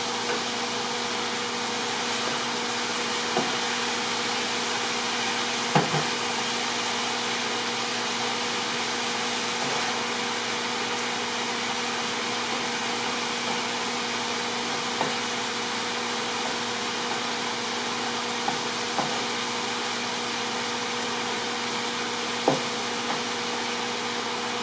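A steady hiss with a constant hum from chicken tikka and onions frying in a large pan on a gas stove, broken by a few sharp knocks of a utensil against the pan.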